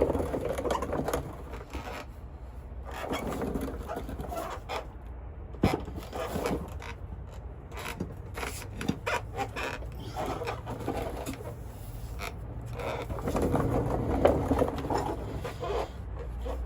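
Metal scraping, clicks and knocks of a drive shaft and tools being handled and set into place, with one sharp knock about six seconds in, over a steady low hum.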